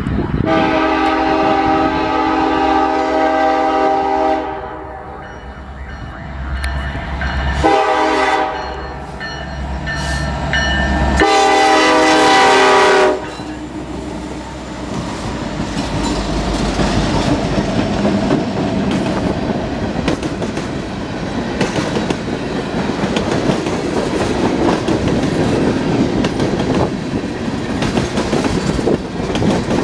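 Canadian National freight train's locomotive air horn sounding at a road crossing: a long blast, a short one, then a final long blast that cuts off about 13 seconds in. The diesel locomotives then pass, followed by tank cars with continuous wheel clatter on the rails.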